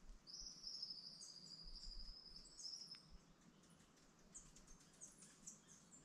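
Faint high, thin trill from small forest birds, lasting about three seconds, followed by a few short high chips near the end.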